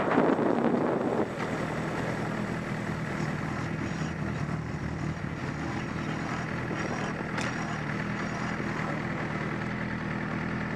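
Motorcycle engine idling steadily, after a rush of wind noise dies away about a second in.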